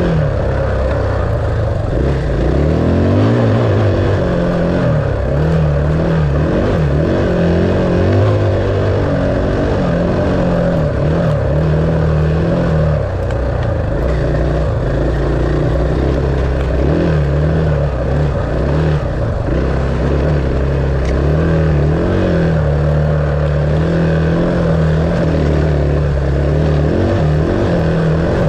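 Dirt bike engine running continuously as it is ridden, its revs rising and falling.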